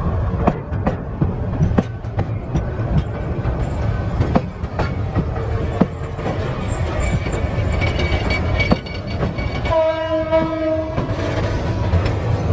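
A Bangladesh Railway passenger train running past with a steady rumble and its wheels clacking over the rail joints. About ten seconds in, the locomotive's horn gives one blast lasting a little over a second.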